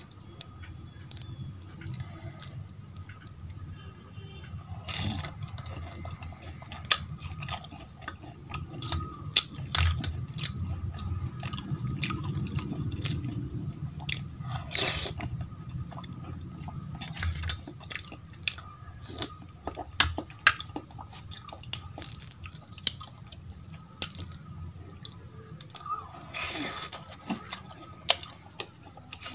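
Close-miked chewing of soft, wet food, with many sharp, irregular wet clicks and smacks from the mouth.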